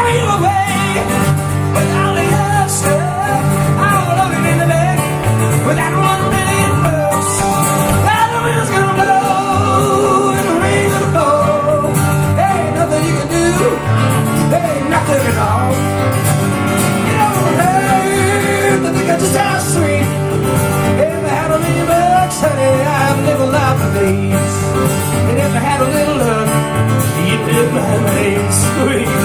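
A country band playing live, with guitars carrying the song.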